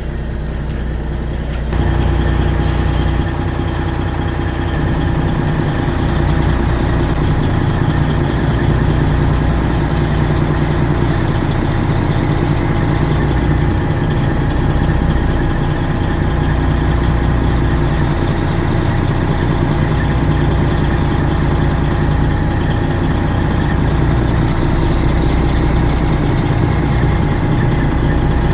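Straight-piped Freightliner Classic XL's Detroit Diesel 12.7 engine running steadily. Its note steps up and gets louder about two seconds in, then holds.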